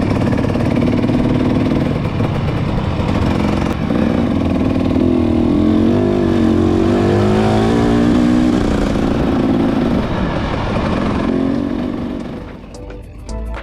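Motorcycle engine running and revving, its pitch rising and falling several times through the middle. It drops away near the end as music comes in.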